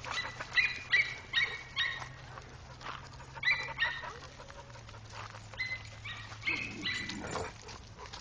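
A dog barking in short, high-pitched yaps, in runs of two to four with pauses between, fairly faint.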